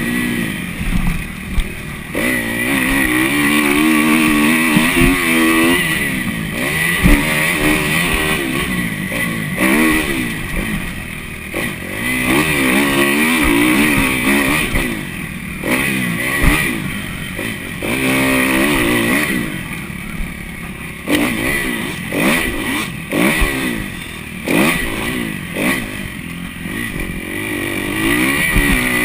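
Kawasaki KX250F motocross bike's four-stroke single-cylinder engine revving up and falling back again and again while being ridden hard around a dirt track.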